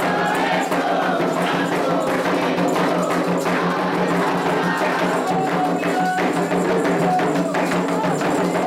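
Candomblé ritual music: atabaque hand drums and a struck bell keep a steady, dense rhythm, with voices singing a chant over it.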